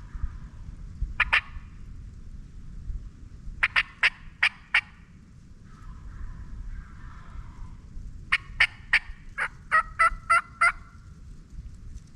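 Turkey yelps in short runs: a pair about a second in, four around the middle, then a longer run of about nine near the end, with a softer rattling call between them, over a low wind rumble.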